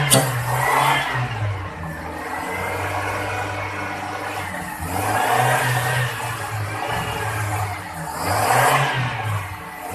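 Kia Pride's carbureted engine running with the hood open. Its speed rises and falls unevenly, with three rises in revs, as the carburetor is worked on; this car was brought in for hard starting and an unstable, shaking idle.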